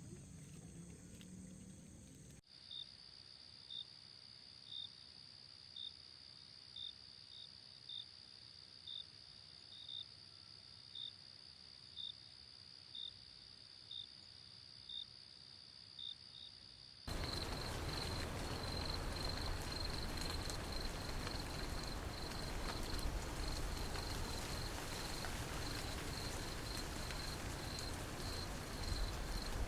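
Insects chirping in high, thin calls. At first, single short chirps come about once a second over a steady high whine. From about halfway through they give way to a continuous fast-pulsing trill over a louder hiss.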